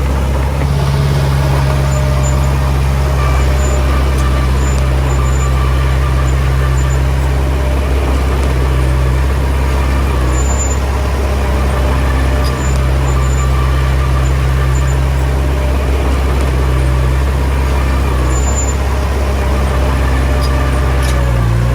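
Komatsu D20P bulldozer's diesel engine running steadily under load, with faint short high squeaks now and then.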